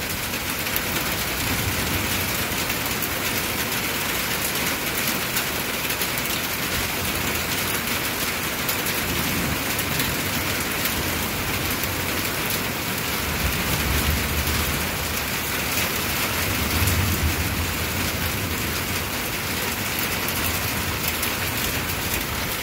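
Heavy thunderstorm rain pouring steadily. Low thunder rumbles swell about halfway through and again a few seconds later.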